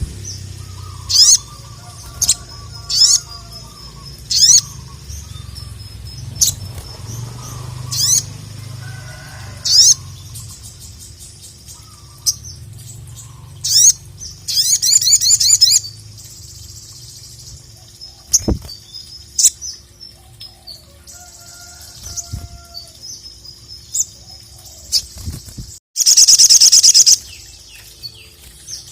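Sogon (sogok ontong) sunbird singing in full voice: loud, sharp, high chips every second or two, a rapid trill about halfway through and a loud buzzing trill near the end.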